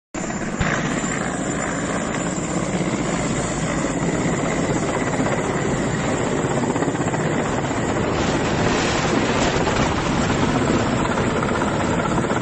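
Steady, continuous vehicle engine and wind noise that holds without a break.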